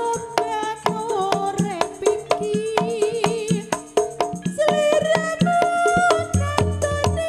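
Live Javanese traditional ensemble music for a folk dance: a wavering, sustained lead melody over a steady pattern of drum and percussion strikes.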